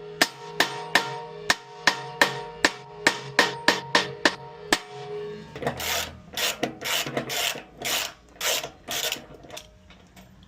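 Hammer blows on metal, about two to three a second, with a ringing tone, followed about halfway through by several seconds of rhythmic scraping strokes.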